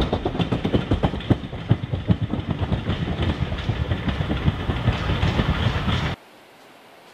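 Passenger coaches of a steam train rolling away, their wheels clattering over rail joints in rapid clicks over a rumble. The sound cuts off suddenly about six seconds in, leaving faint quiet.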